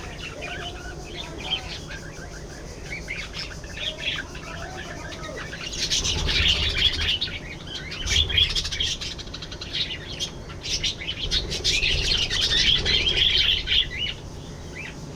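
A flock of budgerigars chirping and warbling. The chatter gets louder and denser about six seconds in and eases off near the end.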